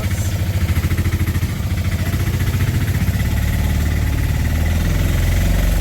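Vehicle engine running with a fast, even pulse, getting a little louder near the end.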